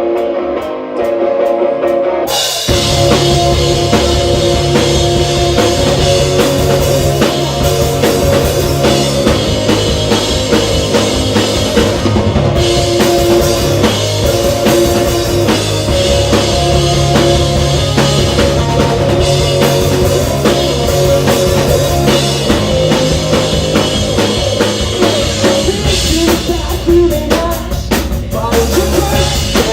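Live rock band playing, with drum kit, bass and guitars. The opening couple of seconds are sparse, and then the full band comes in about two and a half seconds in and plays on steadily.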